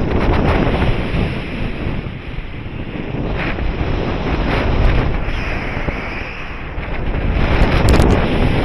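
Wind buffeting the microphone in flight on a paraglider, a loud gusting rush that swells and fades. A few short clicks come about eight seconds in.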